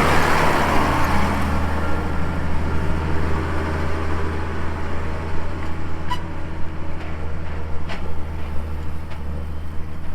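Engine of a farm vehicle running steadily with a deep, even drone while driving across a field spreading clover seed. A hiss fades over the first couple of seconds, and a few sharp ticks come later.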